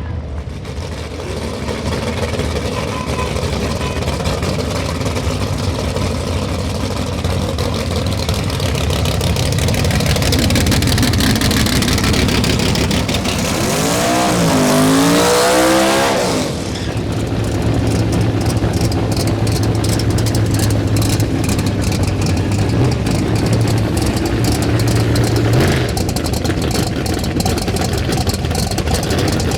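Drag-racing car engine at full throttle, loud and building, with a pitch that sweeps up and down just before it cuts off about halfway through. For the rest, an engine idles loudly on a steady low note.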